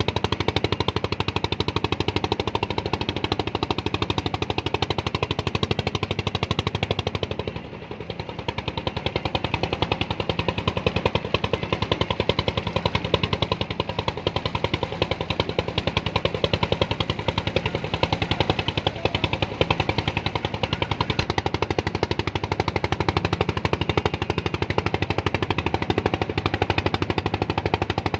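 A small engine running steadily with a rapid, even knocking beat, dipping briefly about eight seconds in.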